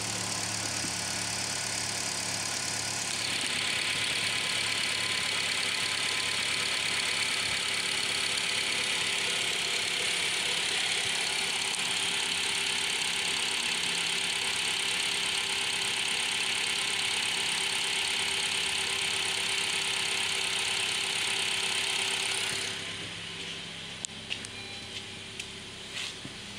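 A 2018 Honda HR-V's 1.8-litre four-cylinder petrol engine idling steadily: a low hum with a strong hiss over it. About 23 seconds in the hiss drops away, leaving the lower hum and a few clicks and knocks.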